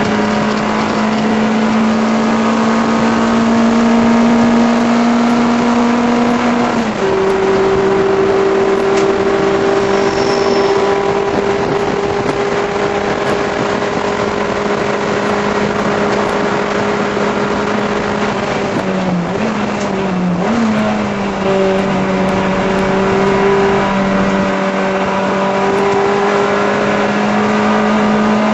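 VW Rabbit race car's four-cylinder engine running hard at high revs, heard from inside the cockpit on track. The pitch climbs slowly, steps down about seven seconds in, dips and wobbles briefly around twenty seconds in, then climbs again.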